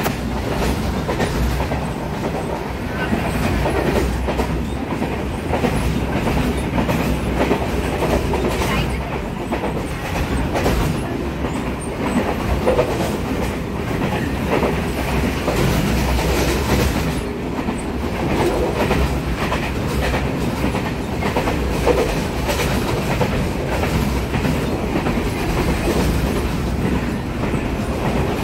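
Passenger train running along the line, heard from inside the carriage: a steady rumble with the wheels clattering over the rails.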